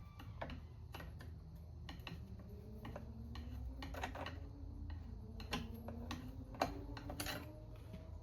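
Irregular small metal clicks and taps of a scrench and hand tools working screws on a chainsaw's housing, with faint squeaks rising in pitch through the middle.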